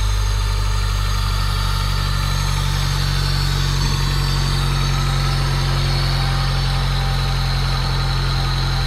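Honda D15B8 1.5-litre four-cylinder engine, newly installed, idling steadily just after starting.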